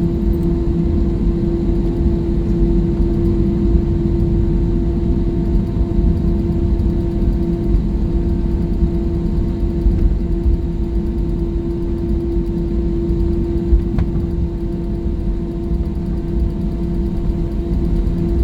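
Airliner cabin noise: jet engines running with a steady low rumble and a constant hum, level throughout.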